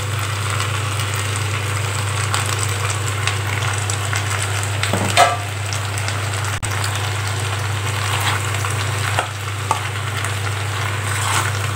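Boiled mixed vegetables and ground coconut masala sizzling in oil in a kadai, with a metal spatula scraping and stirring them in the last few seconds. A steady low hum runs underneath, and there is a short knock about five seconds in.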